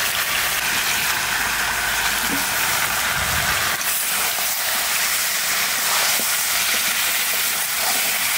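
Chicken and potato pieces frying in hot oil and spice paste in an aluminium kadai, a steady sizzling hiss, with light scrapes as a spatula stirs them.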